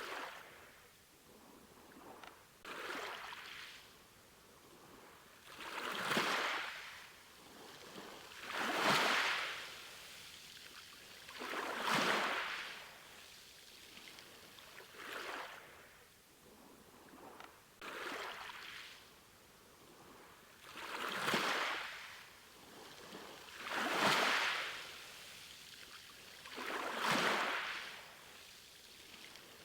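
Small sea waves washing in, one about every three seconds, each a rising and falling rush of water.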